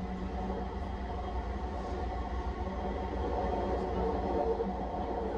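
Vancouver SkyTrain car running along an elevated guideway, heard from inside the car: a steady low rumble with a constant hum. It gets a little louder about three seconds in.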